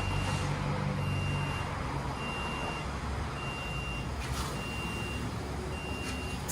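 Electronic warning beeper sounding one high beep about every 1.2 seconds, six times in all, over a low hum that fades out within the first second or two.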